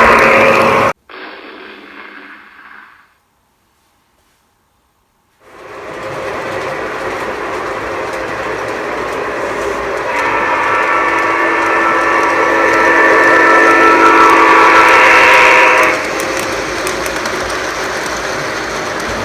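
Electronic diesel horn from an Ott sound unit in a Lionel O-scale Santa Fe diesel, blowing steadily for about six seconds over the steady running noise of the model train on its track. A horn blast at the start cuts off abruptly, followed by a few seconds of near silence before the train noise returns.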